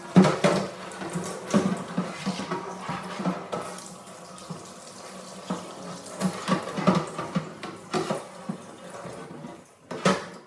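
Tap water running into a sink while fridge shelves are washed in a basin, with repeated knocks and clatters of the shelves being handled.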